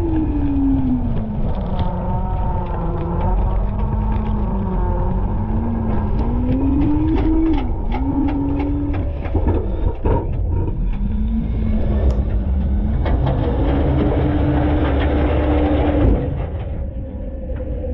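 Front-load garbage truck's engine running, its pitch rising and falling several times as the revs change, with clanks and rattles from the truck's body and hopper. The sound drops somewhat near the end.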